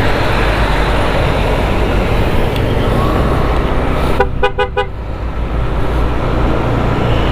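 Steady road and wind noise while riding. A little past the middle a vehicle horn sounds in a rapid string of about five short beeps.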